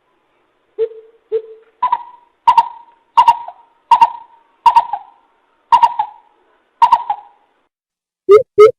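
Greater coucal calling: a series of deep, hollow hoots, two soft low ones followed by about seven louder, higher-pitched hoots spaced a bit under a second apart.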